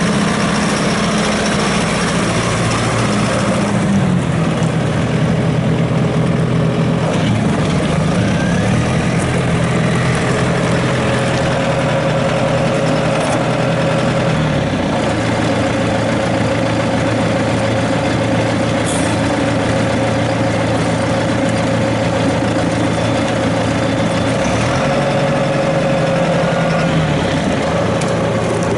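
John Deere 6430 tractor's six-cylinder diesel engine running steadily near idle, its speed shifting slightly a few times.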